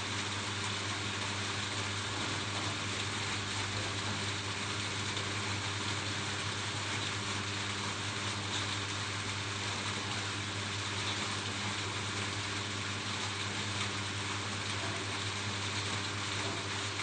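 Steady rain falling on a roof, an even hiss without letting up, over a constant low hum.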